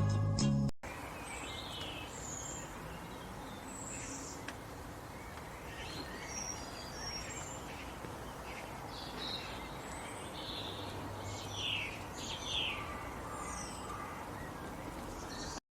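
Birds chirping, many short high calls scattered over a steady outdoor background noise. Background music cuts off about a second in, and everything stops abruptly near the end.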